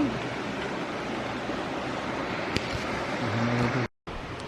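Waterfall rushing steadily, with a single sharp click a little past halfway and a brief low hum near the end; the sound drops out completely for a split second just before the end.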